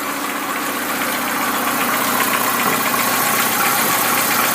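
Lada Niva engine idling steadily, with its engine-driven mechanical cooling fan turning.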